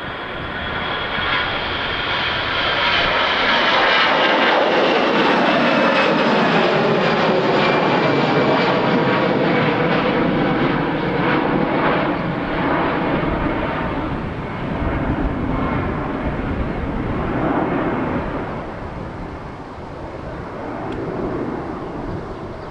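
Airbus A320-214's twin CFM56-5B turbofans at takeoff thrust as the jet passes: a loud engine roar whose tones slide down in pitch as it goes by, then fading as it moves away.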